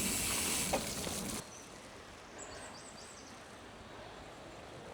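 Steady hiss of riding a gravel bike on a wet trail, tyre and wind noise, which cuts off abruptly about a second and a half in. After that comes a much quieter steady outdoor background with a few faint, high bird chirps.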